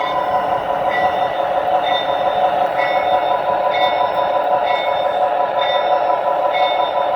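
Lionel Canadian Pacific model diesel locomotive's onboard sound system playing a steady idling engine sound, with its bell ringing about once a second while the engine stands still.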